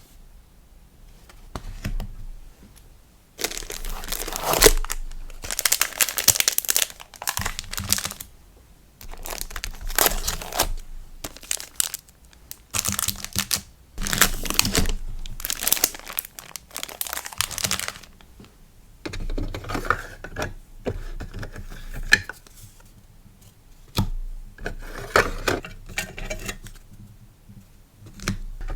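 Packaging being handled for an order: crinkling and rustling in irregular bursts, loudest in the first half, with softer rustling and a few light clicks later on.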